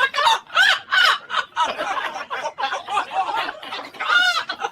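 People laughing hard in quick, high-pitched, squealing bursts.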